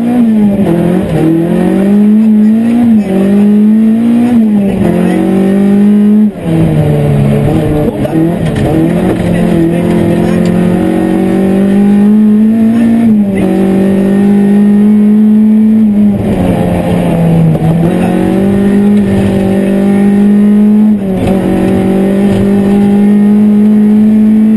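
Opel Astra GSi 16V rally car's four-cylinder 16-valve engine, heard from inside the cabin, running hard at high revs. The revs drop and climb again several times as it changes gear and lifts, with the sharpest drop about six seconds in.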